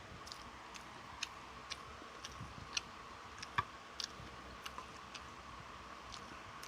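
Close-up eating sounds of someone chewing fried chicken: irregular soft mouth clicks and smacks, about one or two every second, over a faint steady hum.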